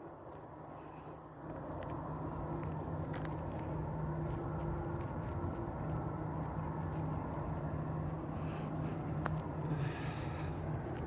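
Jet airliner engines running: a steady rumble with a low hum that grows louder about a second and a half in, then holds.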